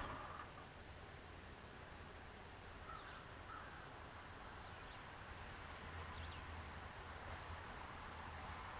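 Faint outdoor ambience: a low steady hum under a few faint, short bird calls.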